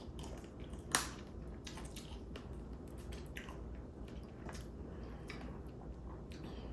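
Person eating whole crab up close: wet chewing and squishing with scattered small cracks and clicks of shell, one sharper crack about a second in.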